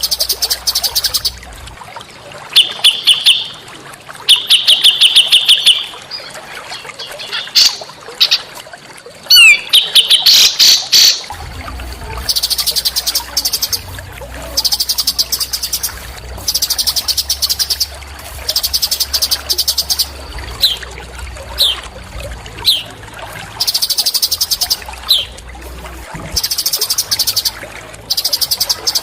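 Small songbird singing loud, rapid trilled phrases about a second long, repeated every second or two, with short sharp single notes in between.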